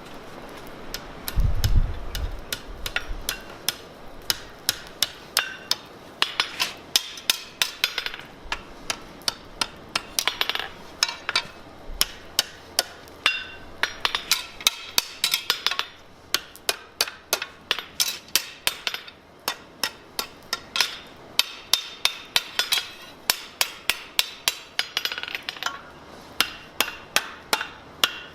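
Blacksmith's hand hammer striking steel on an anvil in a long run of blows, about two to three a second, each with a short metallic ring. A heavy low thud comes about two seconds in.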